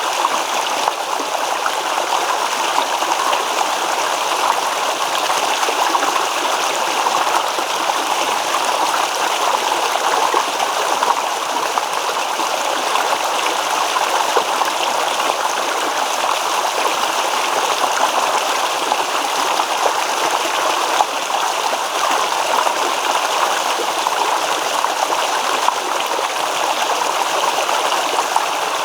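Babbling stream: water flowing and rippling in a steady, even rush with fine trickling detail.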